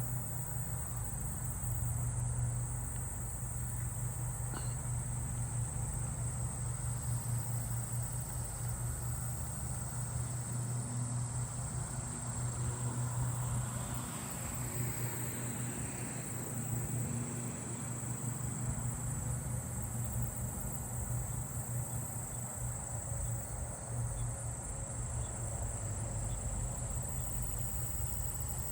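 A steady, high-pitched insect chorus of katydids and crickets, with a lawn mower's engine running steadily underneath.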